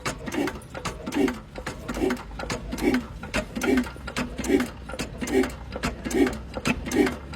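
A machine mechanism running with a regular clacking rhythm, a low knock and a cluster of clicks repeating a little faster than once a second.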